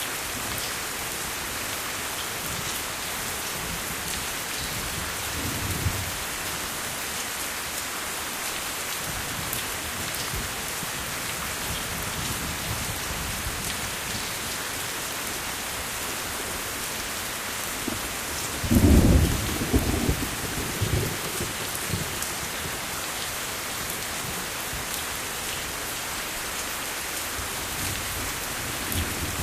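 Steady heavy rain falling, an even hiss throughout, with rolls of thunder: a faint low rumble about six seconds in and a louder rolling rumble about two-thirds of the way through.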